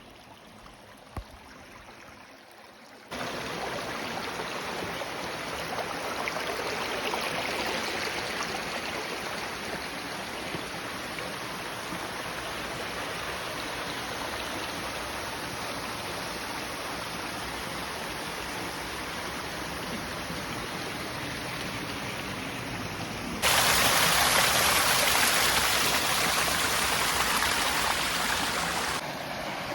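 Steady rush of flowing creek water. It starts abruptly about three seconds in, gets louder for several seconds near the end, then drops back.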